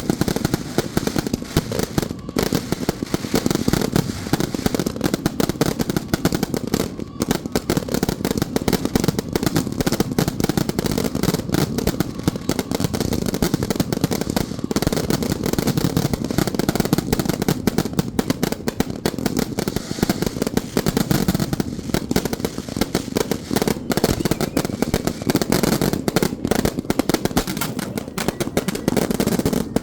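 Firecrackers going off in a dense, continuous rattle of rapid overlapping pops, keeping up without a break.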